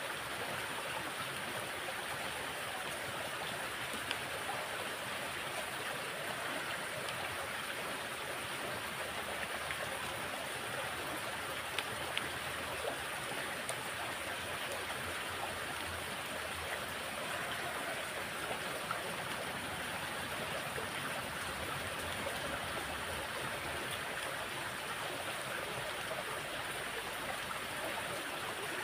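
Steady rush of water flowing along a drainage ditch running full after heavy rain, with a few faint clicks.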